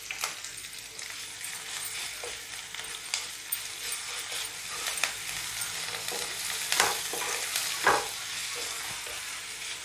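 Onion, green chillies and whole spices sizzling in hot oil in an iron pan, stirred with a wooden spatula that scrapes and knocks against the pan several times, most strongly near the end.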